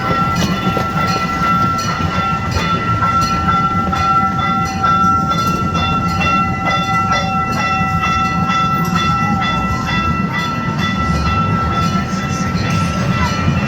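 Boardwalk ride train running along its track: a steady low rumble under a high, steady whine, with evenly repeating clicks of the wheels passing over rail joints.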